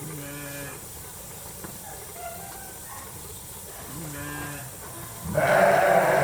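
Sheep bleating: a few short bleats, then a much louder, longer bleat starting a little after five seconds in.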